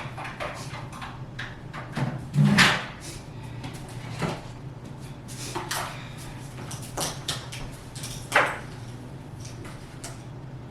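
Knocks, clicks and light clatter of household items being handled, moved and set down during bathroom tidying, with louder knocks about two and a half seconds in and again about eight seconds in, over a steady low hum.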